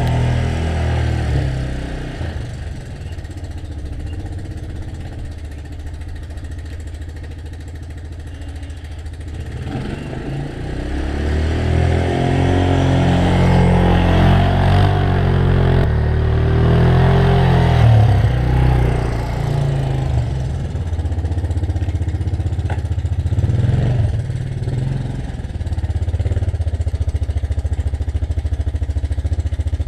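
Gas snowblower engine running, growing louder with its pitch shifting through the middle stretch, then settling into a steady run near the end.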